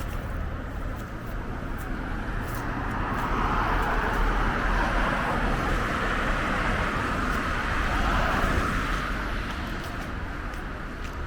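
Road traffic: passing cars' tyre and engine noise swelling and fading over a low rumble.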